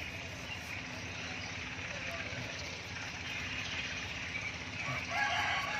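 Faint, indistinct voices over a steady background hum, with one voice coming through more clearly about five seconds in.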